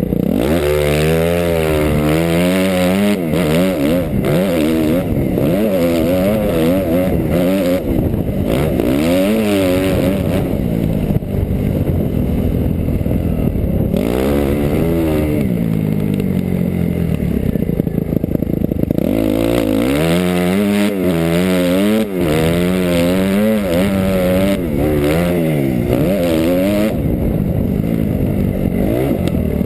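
Suzuki RM-Z250 250 cc four-stroke single-cylinder motocross engine revving up and down again and again under the rider's throttle, its pitch climbing and falling and warbling quickly in places.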